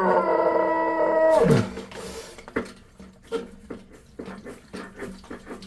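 A man's long strained groan of effort, held steady for about a second and a half and then dropping in pitch, as he forces a tight fitting onto a plastic water line. It is followed by scattered small clicks and knocks.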